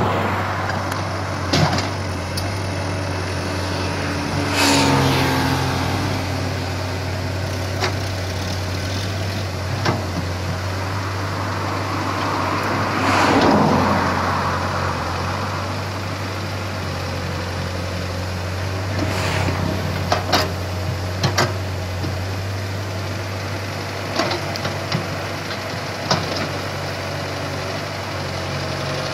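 Komatsu PC75 excavator's diesel engine running steadily as the machine works, swelling louder twice, a few seconds in and near the middle. There are scattered sharp knocks and clanks.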